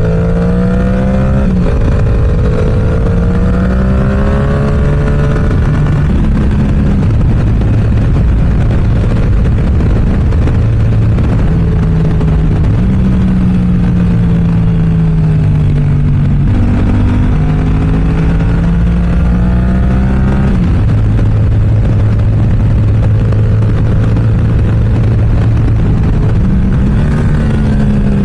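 Yamaha R7's 689 cc parallel-twin engine through an aftermarket M4 exhaust under way: the engine note climbs, then drops sharply several times as the rider shifts or rolls off, and holds steady for a stretch in the middle. Constant wind rush on the microphone.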